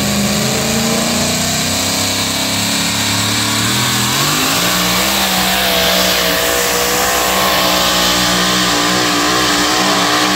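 Alcohol-burning two-wheel-drive pulling truck's engine running loud and continuous; its pitch eases down about three to four seconds in, then holds steady with a slight waver.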